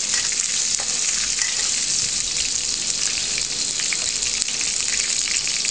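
Chopped garlic, green chilli and cumin seeds sizzling steadily in hot oil in an iron wok while being sautéed, with a faint crackle.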